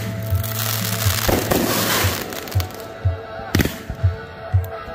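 Fireworks going off: two sharp bangs with crackling tails, one about a second in and one past three seconds, over music with a steady bass beat.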